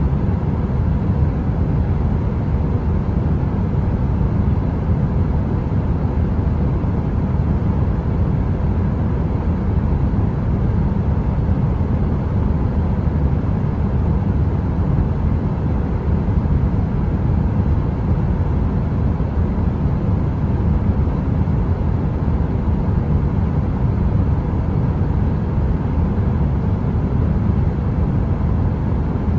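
A heater running: a steady, deep, even rushing noise with a faint hum, with no crackle and no change.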